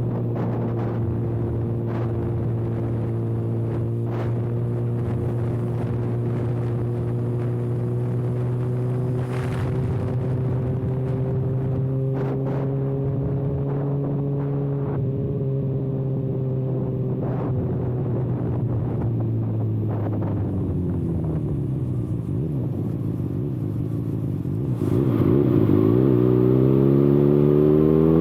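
Kawasaki ZX-6R inline-four running with its exhaust canister removed: a steady engine note while cruising that falls away about twenty seconds in, then turns louder and rises in pitch as the bike accelerates near the end.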